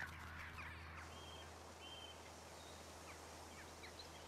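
Faint outdoor ambience with a few short, high-pitched bird chirps, over a low steady hum.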